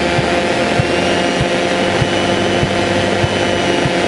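Cessna 152's four-cylinder Lycoming engine and propeller running steadily in flight, heard from inside the cabin, with a soft low tick repeating about every 0.6 seconds.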